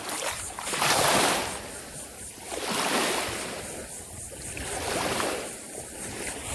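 Small waves washing in at the shoreline, the surf swelling and fading in about three surges, the first the loudest, with some wind on the microphone.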